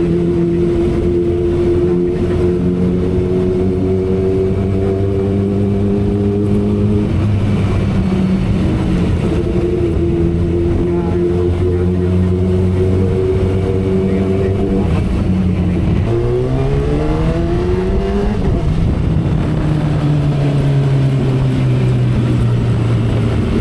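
2012 Kawasaki Ninja ZX-10R's inline-four engine running at expressway speed over wind noise. About two-thirds of the way through it revs up sharply for a couple of seconds, then the pitch drops as with an upshift and slowly falls away.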